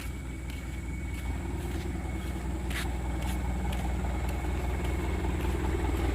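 A Mitsubishi Canter dump truck's diesel engine runs with a steady low rumble that grows gradually louder, with a few faint clicks.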